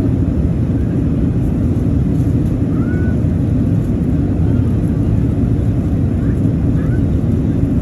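Steady low rumble of aircraft noise inside an Airbus A380 cabin, with faint brief voice-like sounds now and then.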